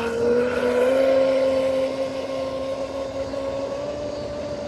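Electric RC speedboat motor whining steadily as the boat runs on the water, its pitch rising slightly about a second in.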